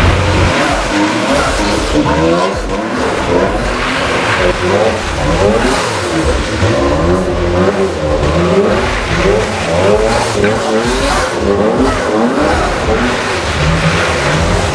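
Sports car engine revving up and down again and again during donuts on wet pavement, its pitch rising and falling every second or so.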